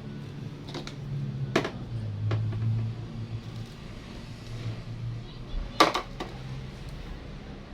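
A few sharp knocks and clicks of parts and tools being handled, over a low steady hum.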